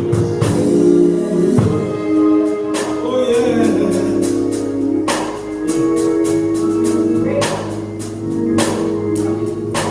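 Gospel music: singing over held organ chords, with drums and tambourine keeping the beat.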